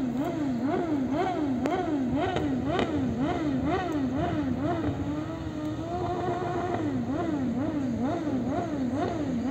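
Motocross bike engine revving up and down in a quick, even rhythm, about twice a second, holding one steady pitch for a moment midway.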